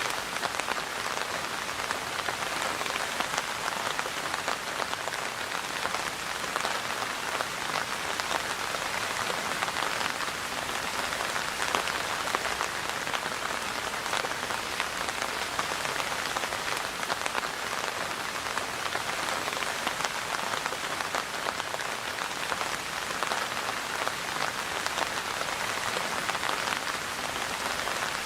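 Steady rain falling on a surface, a dense even patter of drops that neither builds nor fades.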